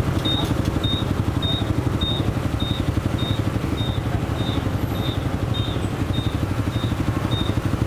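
Motorcycle engine running steadily with a low throb. A short high beep repeats evenly about every 0.6 seconds over it.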